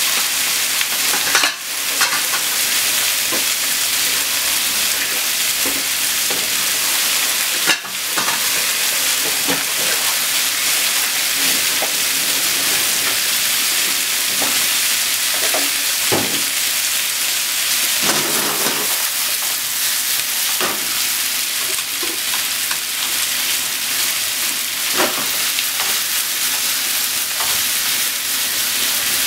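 Chicken pieces, onion, carrot and green pepper sizzling steadily in a frying pan as they stir-fry, with two sharp clicks about one and a half and eight seconds in. Near the end, chopsticks start stirring the pan.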